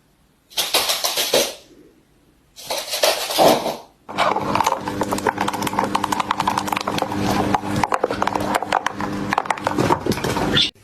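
A pet parrot vocalizing: two short harsh calls, then from about four seconds in a long run of rapid clicking chatter.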